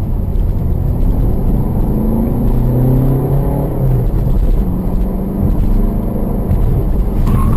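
Car engine and road noise from a moving car, a steady low rumble with the engine note rising and falling for a second or so. There is a short click near the end.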